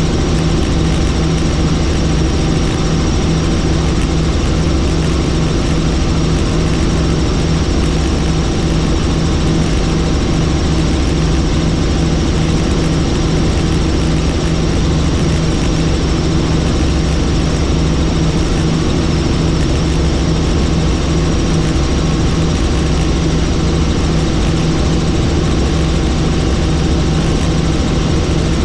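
Helicopter in steady flight, its engine and rotor running loud and unchanging throughout.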